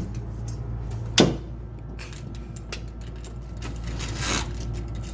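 A sharp knock about a second in, then a few light clicks and a short rustle as something is worked open by hand; a steady low hum runs underneath.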